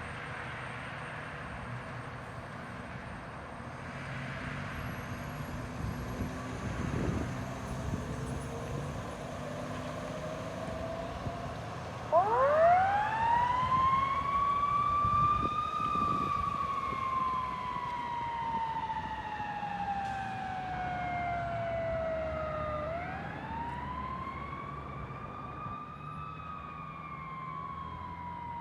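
Traffic noise with a vehicle engine rising in pitch. About twelve seconds in, a responding emergency vehicle's siren winds up sharply, falls slowly over several seconds, then winds up again and starts to fall once more.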